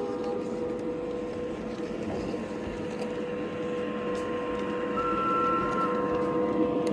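LGB large-scale model trains running on the layout: a steady electric-motor hum with rolling noise from the track, and a short high steady tone about five seconds in.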